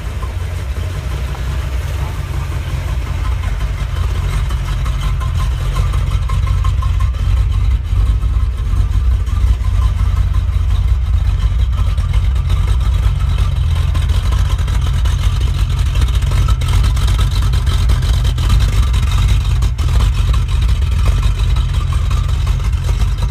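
1966 Ford Mustang's 289 V8 with a mild cam, running steadily through stock exhaust manifolds and mufflers: a low, even exhaust rumble that grows a little louder over the first few seconds, then holds.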